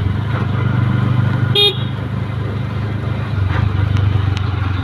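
Three-wheeled motorcycle's engine running steadily on the move, with one short horn beep about a second and a half in.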